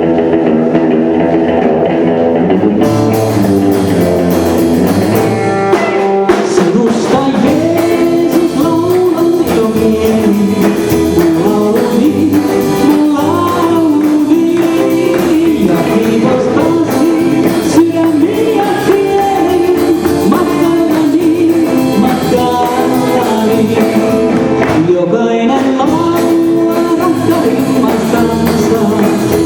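Live band playing a gospel song in Finnish. It opens with guitar and band, the full band with drums comes in about three seconds in, and a singer's voice carries the melody from about six seconds.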